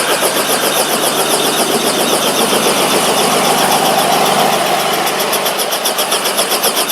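Helicopter in flight: engine and rotor running steadily, with a fast, even pulsing from the rotor blades.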